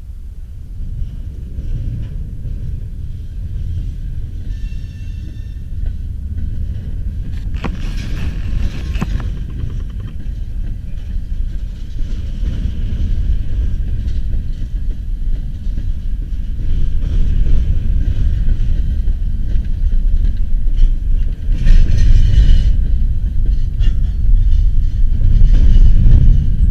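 Freight train of covered hoppers, tank cars and double-stack container cars rolling past: a steady low rumble of wheels on rail that grows louder throughout. A cluster of sharp clanks comes about eight seconds in, and brief high squeals come around five and twenty-two seconds in.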